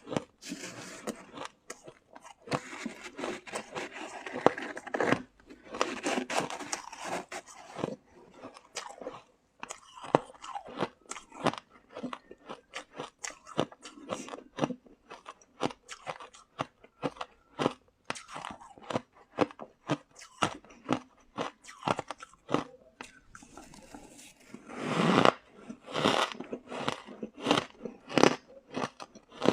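Shaved ice being bitten and chewed right at the microphone: a steady run of sharp, squeaky crunches, with longer grinding bites about a second in, around six seconds in and near the end.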